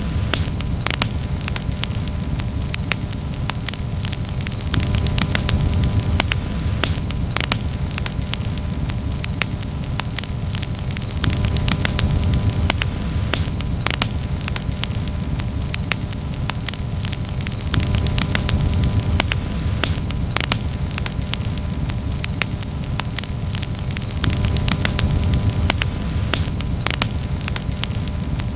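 Campfire crackling steadily with frequent sharp pops and snaps, over a low rumble that swells and eases every few seconds.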